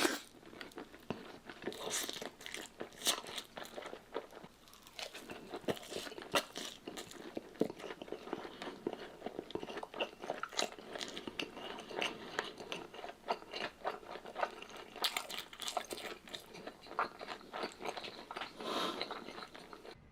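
Mukbang eating on a close microphone: a person taking big bites and chewing fast, with a continuous run of crunches and sharp mouth clicks.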